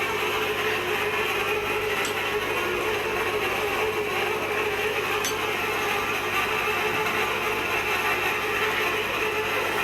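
Steady mechanical noise with faint steady tones and two faint clicks, about two and five seconds in.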